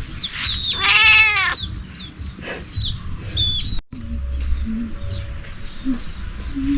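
A cat meows once, a drawn-out call that rises and falls in pitch, about a second in, while small birds chirp repeatedly in short falling notes.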